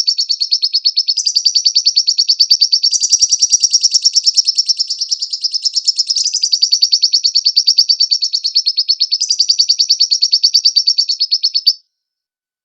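Lovebird singing a long, rapid, high-pitched chattering trill that shifts its note pattern every second or few. It breaks off abruptly about a second before the end, leaving silence.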